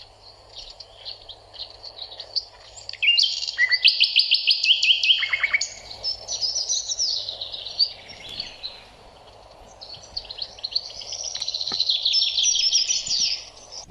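Birds singing in rapid trills and chirps, in phrases, loudest about three to six seconds in and again near the end.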